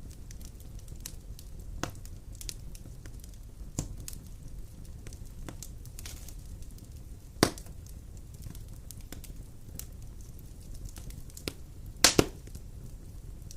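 Wood fire burning in a fireplace: a steady low rumble of flames with scattered crackles, a loud pop about halfway through and a sharp double pop near the end.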